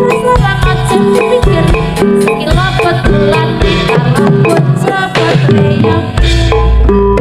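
Jaranan dance accompaniment: a loud, drum-driven ensemble of percussion and pitched melodic instruments playing a busy, fast rhythm, with a deep bass note coming in about six seconds in.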